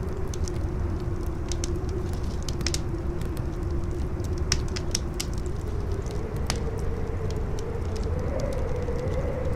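Campfire crackling with scattered sharp pops, over a steady low wind rumble and a howling wind tone that rises in pitch past the middle.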